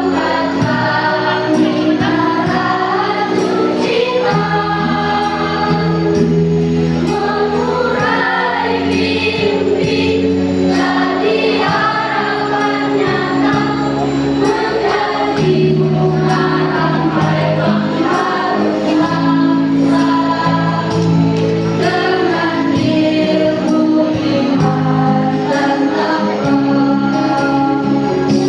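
Choir singing with instrumental accompaniment that includes a steady beat.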